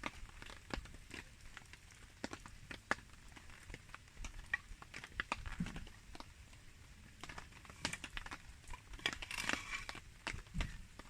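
Wood campfire crackling with irregular snaps and pops in the rain, and a denser burst of crackling near the end.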